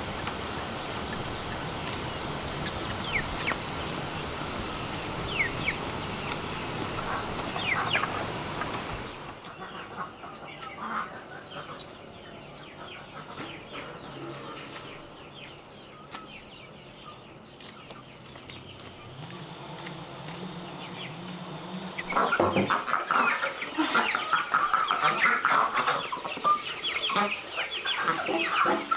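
Chickens clucking, a few calls at first and a dense, loud flock from about two-thirds of the way in. Before that, a steady hiss with a few short high chirps, and an abrupt change in the background about a third in.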